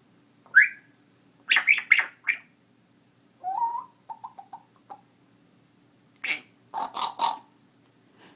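Young pet parrot making short, sharp squawks and clicky calls in several quick bursts, with a short whistled note and a few quick chirps about three and a half seconds in.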